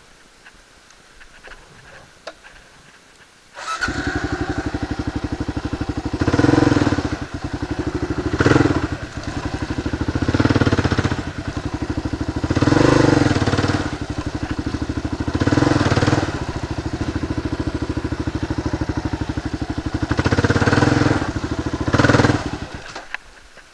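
Kawasaki KLR 650's single-cylinder engine starting up abruptly a few seconds in, then idling with about seven throttle blips a couple of seconds apart, and shutting off just before the end.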